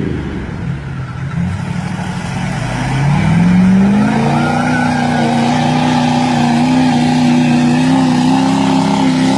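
A truck engine revving up over a couple of seconds, then held steady at high revs.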